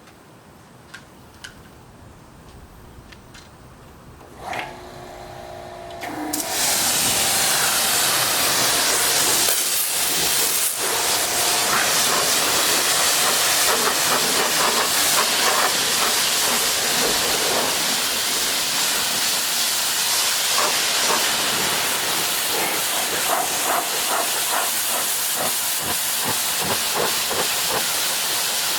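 Pressure washer starting up about four and a half seconds in, then spraying a loud, steady hiss of high-pressure water with the pump's hum underneath.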